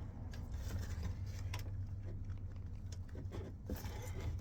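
A few faint clicks and handling sounds from working on a truck door's speaker and its clips, over a steady low hum.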